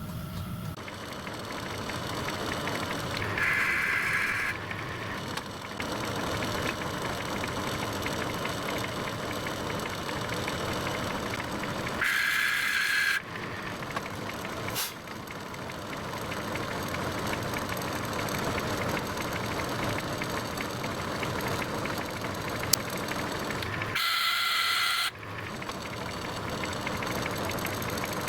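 Lathe running steadily while machining a bronze bar, with a brief high-pitched ring from the cut three times, each lasting about a second, and a single sharp click near the end.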